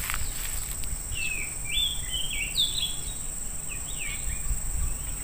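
A bird sings a run of short, quick chirping notes for about three seconds, starting about a second in, over a steady high-pitched insect drone.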